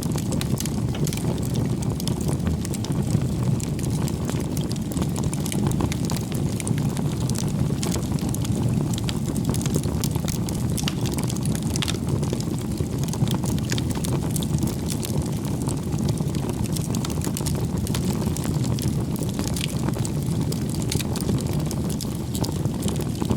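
Wood campfire burning: a steady low rush of flame with frequent sharp crackles and pops from the burning logs.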